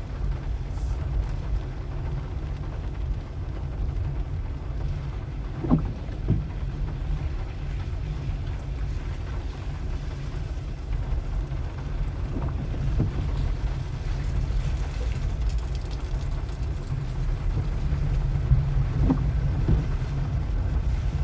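Car driving on a wet sandy road: a steady low rumble of engine and tyres, with a few short knocks now and then as it goes over bumps.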